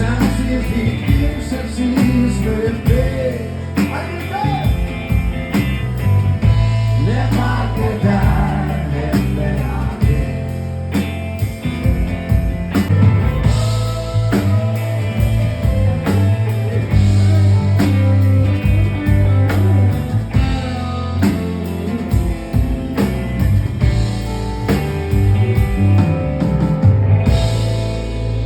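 Live rock band playing: electric guitar, bass and drums, with a singing voice over them, the music stopping just at the end.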